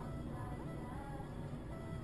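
Steady low rumble of a car's engine and road noise inside the cabin, with faint music playing over it.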